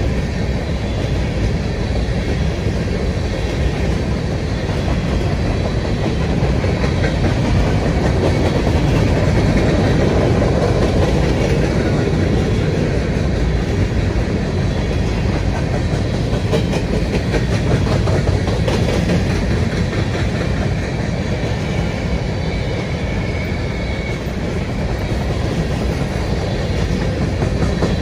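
Railroad cars rolling past on the track: a steady, loud rumble of steel wheels on rail, with faint repeated clicks as the wheels cross rail joints.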